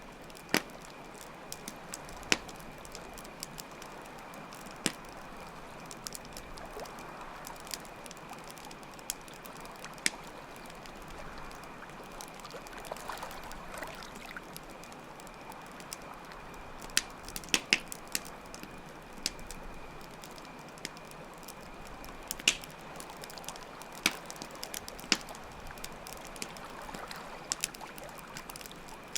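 Campfire crackling with irregular sharp pops, over steady flowing water and a continuous high cricket trill.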